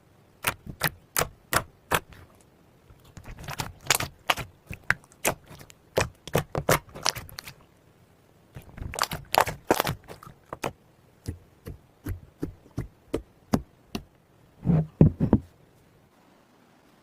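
Slime being squeezed and poked, giving a series of sharp clicking pops in irregular clusters. The pops stop about a second and a half before the end.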